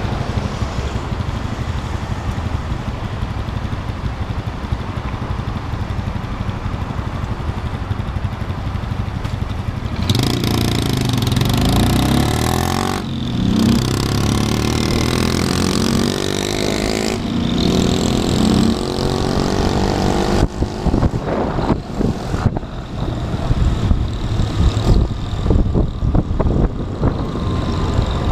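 Motorcycle engine running steadily at first. From about ten seconds in it accelerates through the gears, its pitch rising and falling with each shift, and the sound turns choppy over the last several seconds.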